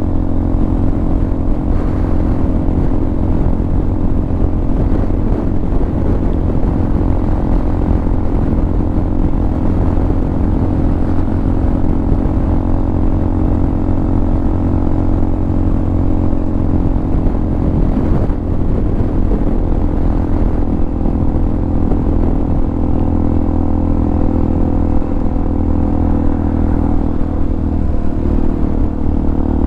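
Hawk 250 single-cylinder motorcycle engine, carbureted and fitted with a Motocults stage 4 kit, running steadily under way at an even speed. The engine note shifts slightly lower near the end.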